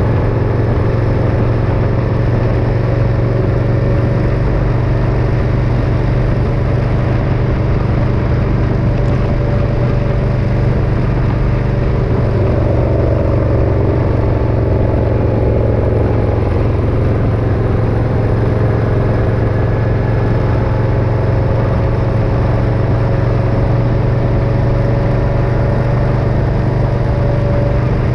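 Motorcycle riding at a steady cruise: a constant engine drone with road and wind noise, its pitch drifting only slightly.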